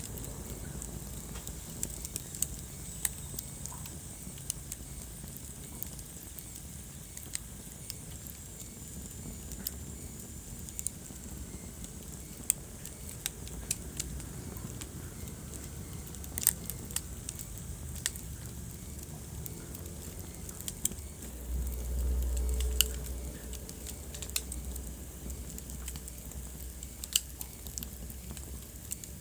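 Wood fire in a fireplace crackling: sharp pops scattered irregularly over a low steady rumble. The rumble swells louder for a second or two about three-quarters of the way through.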